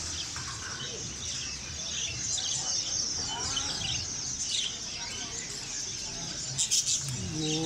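Many caged birds chirping and twittering at once in a dense, high-pitched chatter, with a couple of sharp, loud calls or clicks near the end.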